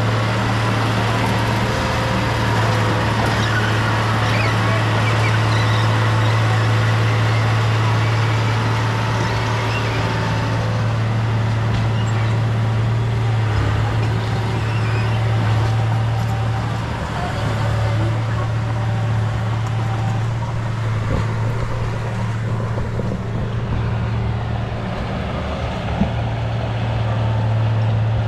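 Diesel engine of heavy earthmoving machinery running steadily under work, a constant low drone, with one short knock near the end.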